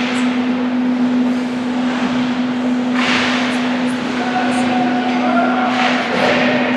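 Hockey skates scraping across rink ice, with two hard skate stops spraying ice about three and six seconds in, over a steady low hum.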